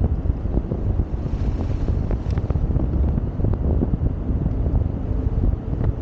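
Wind buffeting the microphone on a moving Yamaha XSR700 motorcycle, a steady rough rumble, with the bike's parallel-twin engine running beneath it.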